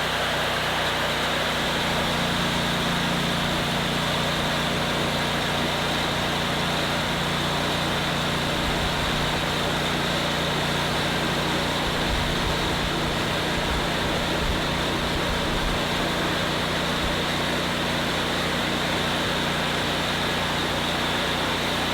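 Lavina 25-inch propane-powered planetary concrete grinder running steadily at full throttle with its blade clutch engaged, the engine hum mixed with the even grinding noise of the heads on the floor.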